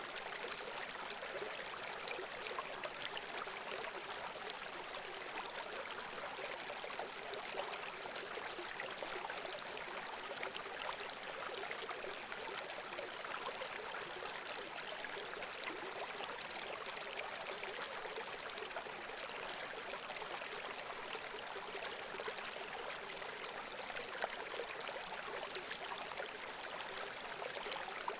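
Running water: a steady rush like a stream or small cascade, with fine splashing throughout.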